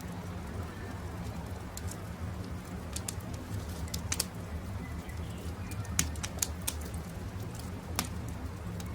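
Campfire crackling: burning wood gives sharp pops, several of them scattered through these seconds and the loudest about six seconds in, over a steady low rumble.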